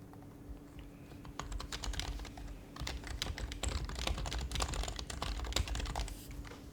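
Typing on an HHKB Professional HYBRID Type-S keyboard, its silenced Topre keys making a quick run of soft clicks. The typing starts about a second and a half in, pauses briefly, then runs on until shortly before the end.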